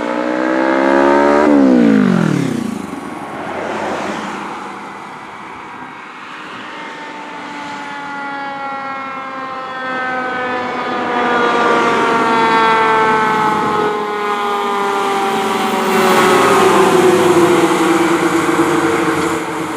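Fire engine siren sounding over the truck's running noise, its pitch dropping steeply about two seconds in, then a long slow downward wail through the rest of the passage.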